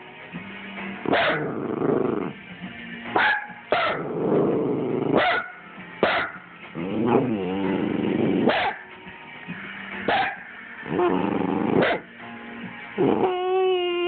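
Dachshund making a mix of low growls, whines and about eight short, sharp yips or barks spaced a second or two apart, with a wavering whine near the end.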